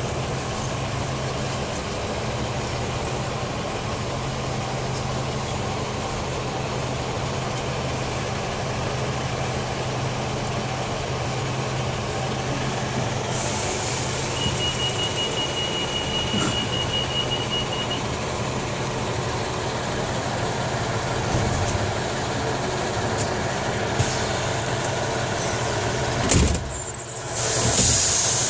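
Diesel multiple-unit train running, heard from inside the carriage: a steady low engine hum and rumble. Midway a rapid run of short high beeps lasts about three and a half seconds. Near the end the rumble briefly drops and a burst of hiss follows.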